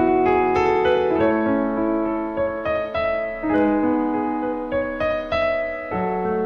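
Piano playing an instrumental passage of a slow ballad arrangement: single melody notes struck over sustained chords, each note ringing and fading, with no singing.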